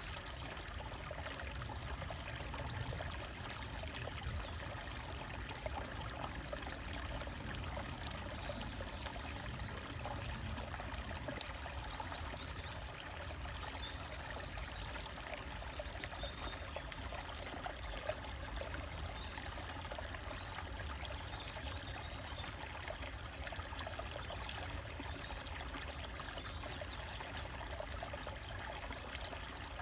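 A small forest stream trickling and splashing over rocks, steady throughout, with faint high bird chirps now and then, mostly in the middle.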